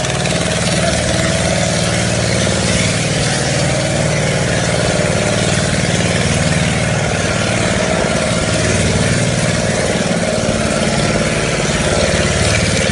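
An engine running steadily at idle, with a constant hiss over a low hum.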